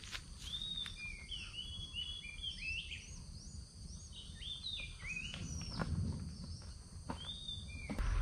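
Birds calling repeatedly: many short, swooping chirps in quick runs, over a faint steady high drone and low outdoor rumble.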